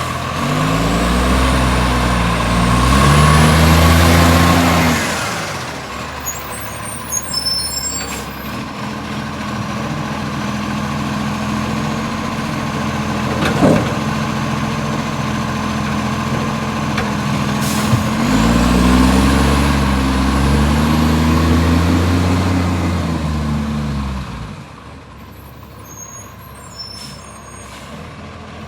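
Garbage truck engine revving up and back down twice, several seconds each time, idling steadily in between, with one sharp knock about halfway through. The truck has an exhaust leak.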